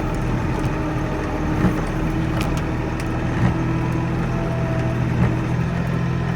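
Kioti NX4510 tractor's diesel engine running steadily, with a few light knocks and cracks of wood as it pushes logs.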